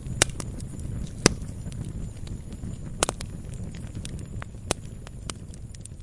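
Wood fire in a fireplace crackling: many small snaps and four sharp, loud pops over a steady low rumble.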